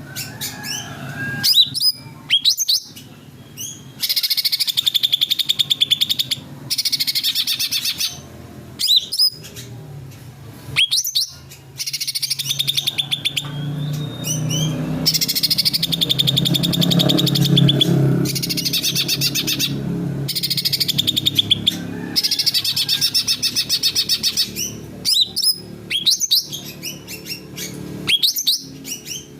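Cucak ranting singing vigorously: dense rapid trilled phrases, each about one to two seconds long, alternating with sharp upward-sweeping notes, over and over. A low hum underlies the song through the middle.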